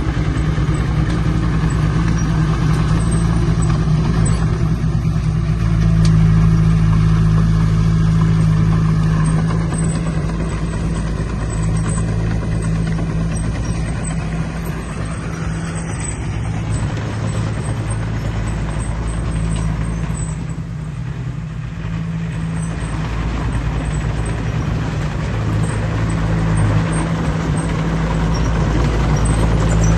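Heavy-equipment diesel engine running steadily under load. It grows louder about six seconds in, eases off around twenty seconds in, then builds again near the end.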